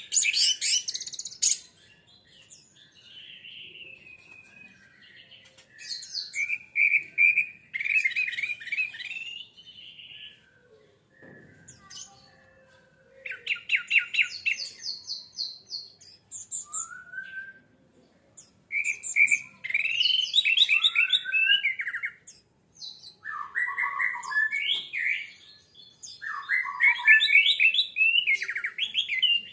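Orange-headed thrush (anis merah) singing, starting abruptly: a run of varied phrases of quick repeated and trilled notes, with short pauses between them.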